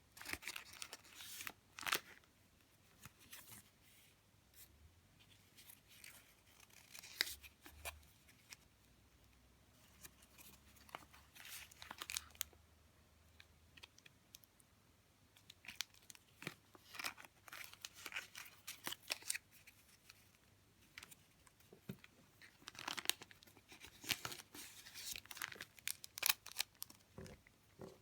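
Paper and plastic sleeves rustling and crinkling as they are handled, in irregular short bursts with quiet gaps between.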